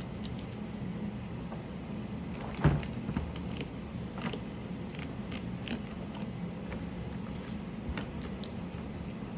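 Scattered small clicks and taps from mechanical keyboard parts being handled, as keycaps and switches are pulled and pressed on, with one louder knock about two and a half seconds in. A steady low hum runs underneath.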